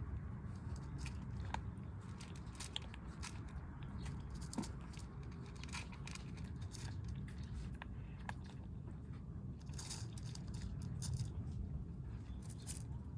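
Kittens crunching and chewing dry cat food, with many quick, irregular crunches over a steady low rumble.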